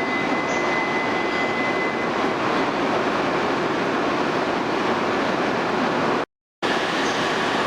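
E2 series Shinkansen train at the platform, giving a steady rush of train noise with a thin high whine that fades out about two seconds in. The sound cuts out for a moment near the end, then resumes with a fainter whine.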